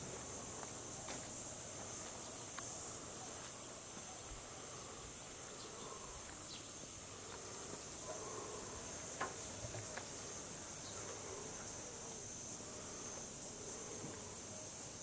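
Steady, high-pitched chorus of insects singing, with a few faint clicks.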